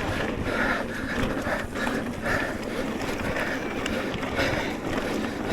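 Riding noise from an electric mountain bike on a dirt trail: wind buffeting the camera microphone with tyres rolling and the bike knocking and rattling over rough ground.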